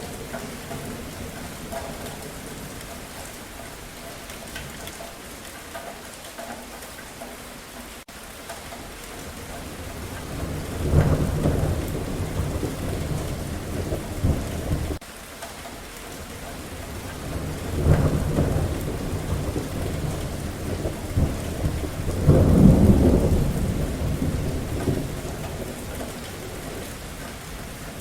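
Steady rain with rolling thunder. Low rumbles swell in about eleven seconds, eighteen seconds and twenty-two seconds in; the last is the loudest, and the first cuts off abruptly.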